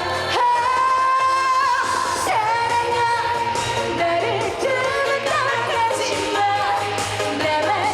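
A woman singing a Korean trot song live over a backing track, holding long notes.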